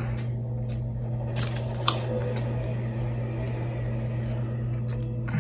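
Close-up eating sounds: chewing and squishing of a fried chicken sandwich, and a sauce packet being squeezed onto it, over a steady low hum. A sharp click about two seconds in.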